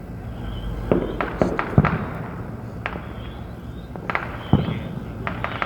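Consumer fireworks going off all around: about ten sharp bangs and booms at irregular intervals, several close together, over a steady rumble of many distant fireworks.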